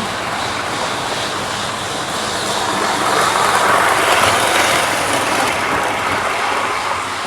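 Model train running along the track past the camera, its electric motor whirring and wheels running on the rails, getting louder as it passes in the middle and easing off near the end.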